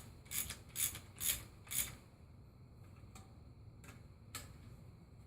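Hand socket ratchet wrench working a bolt, about five quick ratcheting strokes in the first two seconds, then a few scattered clicks.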